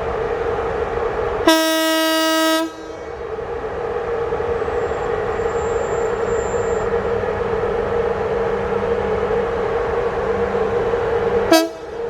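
Locomotive horn sounding one blast of about a second, then a short toot near the end, over the locomotive's steady hum: the train's departure signal as it pulls out.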